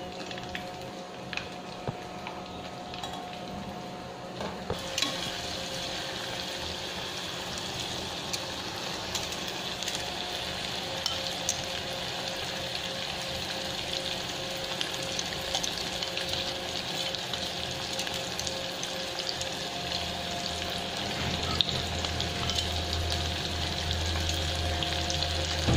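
Chicken liver deep-frying in bubbling oil in a glass saucepan: a steady sizzle that grows louder about five seconds in.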